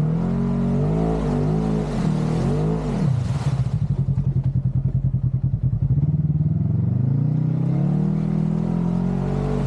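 Side-by-side UTV engine revving: about four quick rises and falls in the first few seconds, steadier running, then a longer climb from about seven seconds in that drops back near the end.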